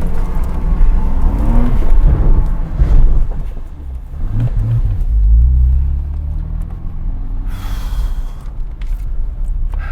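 Porsche Cayman 987's 2.7-litre flat-six engine revving hard, then easing off about four seconds in and running lower and quieter as the car slows.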